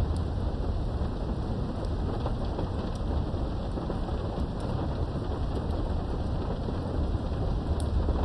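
Steady rain heard from behind a window, with scattered drop ticks and a continuous low rumble of thunder.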